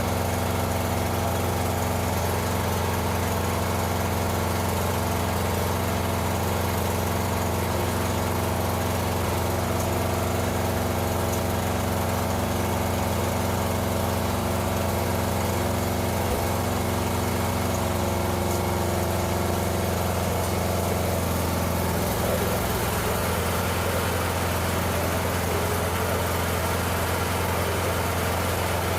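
The 12.5 hp Briggs & Stratton engine of a 1997 Mastercraft lawn tractor running steadily while the tractor is test-driven. The engine note shifts about two-thirds of the way through.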